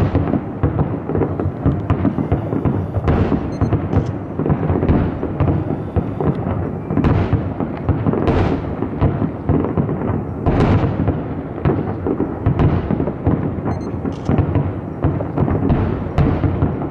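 Fireworks going off in a continuous barrage, shell bursts booming and crackling one over another with no pause between them.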